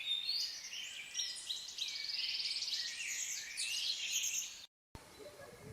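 Several songbirds singing at once, overlapping chirps and trills, including a fast trill near the middle; the song cuts off abruptly about four and a half seconds in.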